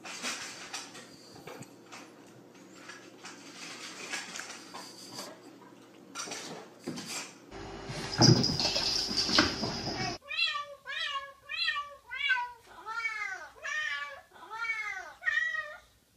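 A cat meowing repeatedly, about nine meows in quick succession over the last six seconds, each rising then falling in pitch. Before that come scattered knocks and clatter, loudest about eight seconds in.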